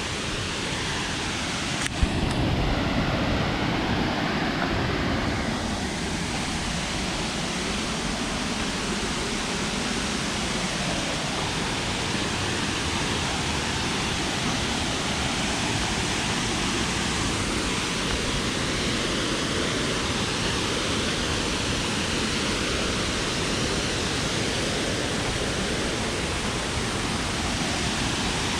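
Waterfall pouring: a steady, loud rushing of water. A brief click about two seconds in.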